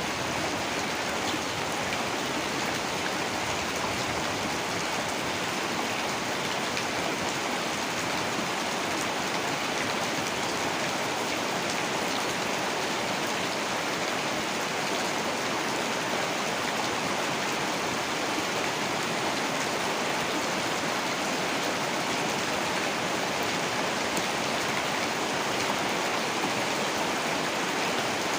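Heavy rain falling steadily, an even hiss of rain without a break.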